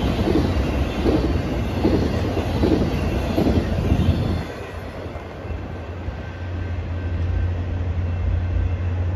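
Intermodal freight train's wheels clicking over the rail joints as the cars pass, about one beat every 0.7 s. The clicking stops abruptly a little over four seconds in as the last car goes by, leaving a steady low rumble.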